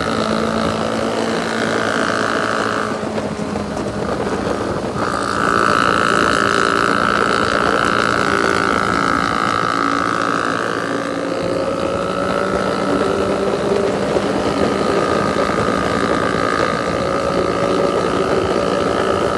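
Sport motorcycle engine running under way. Its note shifts in pitch a few times, with wind buffeting the microphone.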